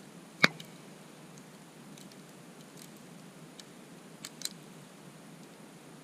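Wood campfire crackling: one sharp, loud pop about half a second in, then a few fainter snaps later, over a steady low hiss.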